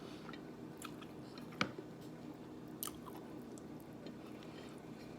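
A person chewing food close to the microphone, with a few sharp wet mouth clicks, the loudest about one and a half seconds in. A steady low hum runs underneath.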